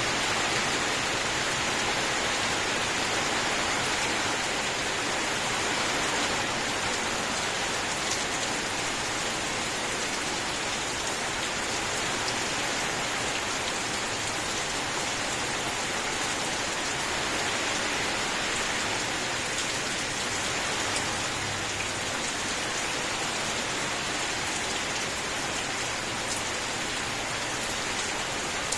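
Steady rain falling, an even hiss of many drops with occasional faint individual drop ticks.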